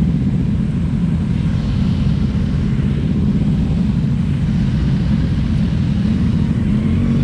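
Kawasaki Z300 parallel-twin engine running at low speed, a steady low rumble with no revving.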